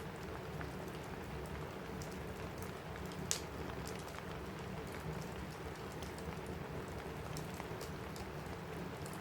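Steady rain on a cabin roof with a crackling fireplace: scattered small snaps, and one louder pop about three seconds in.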